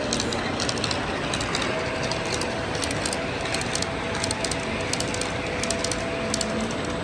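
Model train running on a layout, its wheels clicking rapidly and irregularly over the rail joints, over a steady background din. A steady two-note hum joins about two seconds in.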